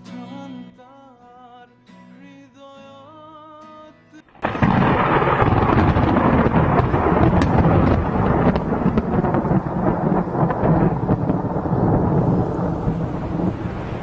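Soft music for the first few seconds, then about four seconds in a loud, dense rushing rumble starts abruptly and carries on steadily.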